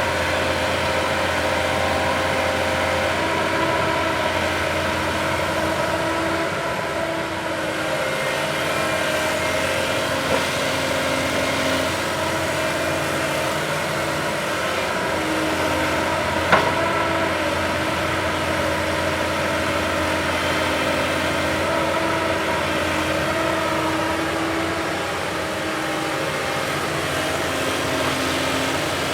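Backhoe loader's diesel engine running steadily, with a single sharp knock about sixteen seconds in.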